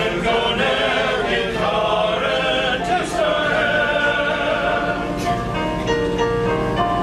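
Male chorus singing with instrumental accompaniment. The voices stop about five seconds in and the accompaniment carries on with held notes.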